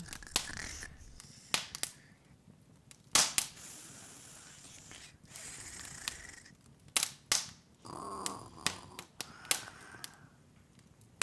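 Open fire crackling: irregular sharp pops and snaps at uneven intervals over a soft hiss.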